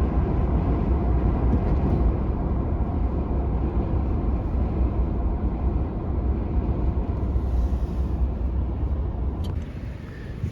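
A vehicle driving along a road, a steady low engine and tyre rumble that eases slightly near the end.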